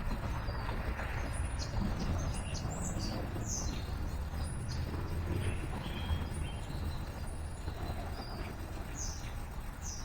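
Small birds chirping: many short, high calls repeating irregularly, over a steady low rumble of traffic.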